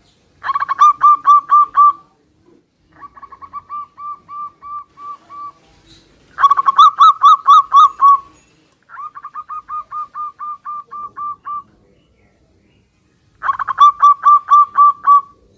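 Zebra doves cooing back and forth: five phrases of quickly repeated notes, loud phrases at the start, middle and end taking turns with two quieter, slower ones, as one bird answers another.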